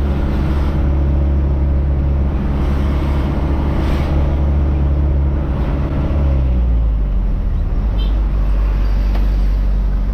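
Truck engine running under way with a heavy low rumble; about six seconds in the engine note falls as the revs drop, then holds steady at the lower pitch.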